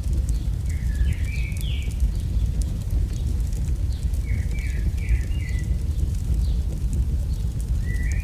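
AI-generated campfire ambience: a steady low rumble of burning wood with scattered small crackles. A bird chirps short runs of stepped, rising notes three times: about a second in, around the middle, and near the end.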